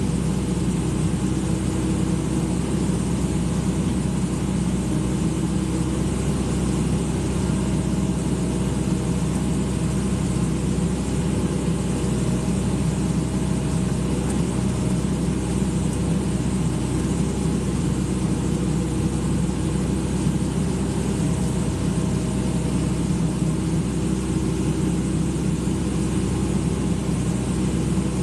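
Excavator's diesel engine running steadily at an even speed, with no changes in pitch or level.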